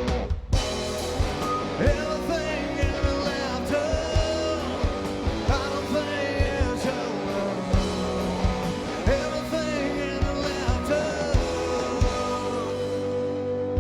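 Live rock band playing an instrumental stretch of a song, electric guitar over bass and drums, with a brief break just after the start before the full band comes back in.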